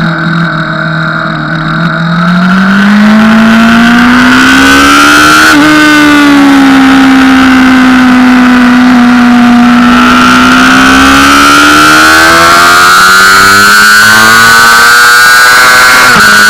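Honda CBR600RR inline-four engine at full track-day pace, heard onboard with wind rush. It comes up from lower revs out of a quieter opening, rises in pitch to a brief break about five and a half seconds in, then holds and climbs steadily again under throttle.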